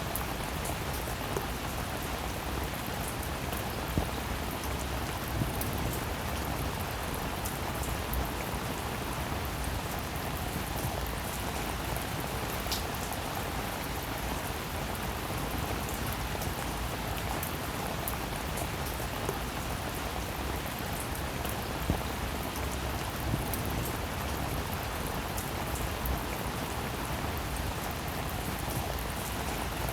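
Steady, even rainfall, with now and then a louder single drop ticking sharply, at about 4 s, 5.5 s, 22 s and 23 s.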